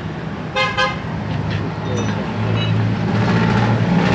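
A motor vehicle engine running steadily, growing louder a little past halfway. There are two short pitched beeps less than a second in.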